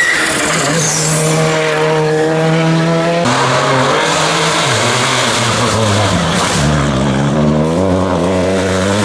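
Rally car engines driven hard. First one engine holds a steady high note. After an abrupt change about a third of the way in, the engine note drops as the car slows, then revs rise again as it accelerates.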